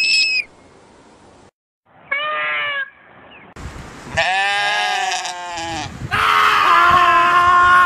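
Goats screaming: three separate loud cries, a short higher-pitched one about two seconds in, then two longer, lower ones, the last held steady. A high whistle-like tone cuts off in the first half second.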